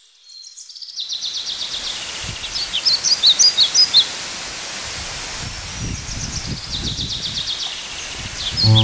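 Birds calling in quick series of high chirps and short trills, loudest a few seconds in, over a steady rushing noise.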